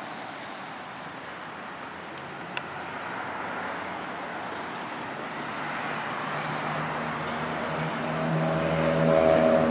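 A motor vehicle's engine hums at a steady pitch, swelling louder from about two-thirds of the way in and peaking near the end, over a steady background hiss. A single sharp click comes a little over two seconds in.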